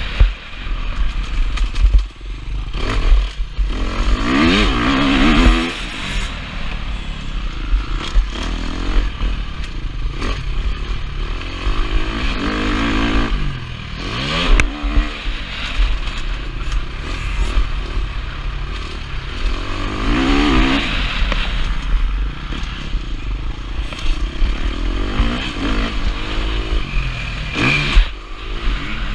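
KTM 350 SX-F four-stroke single-cylinder motocross engine under hard riding, its pitch climbing and falling again and again as the throttle is opened and gears are changed, with clatter from the bike. Heard from a helmet-mounted camera, with a constant low wind rumble on the microphone.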